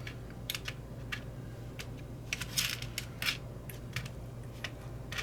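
Irregular light clicks and ticks of small parts being picked through in a container, about a dozen, over a low steady hum.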